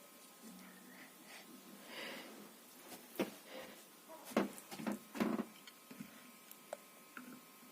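18-inch NIGA mini ceiling fan running with a faint steady whine. A few sharp clicks and knocks come a few seconds in.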